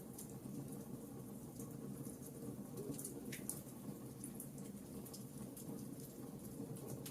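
Log fire burning in a fireplace: a low steady rush under many small scattered crackles and pops, with one sharper pop about three seconds in.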